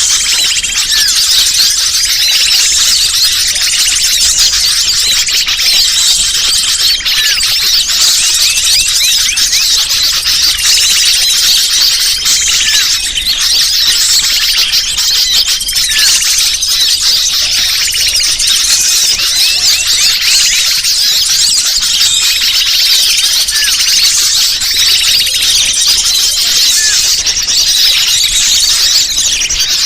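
Bird-lure recording: a dense, unbroken chatter of many small birds chirping and squeaking at once, high-pitched and loud, played to call wild birds in.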